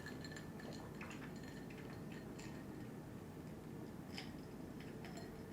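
Quiet eating sounds: a few faint, scattered small clicks and wet ticks over low room tone.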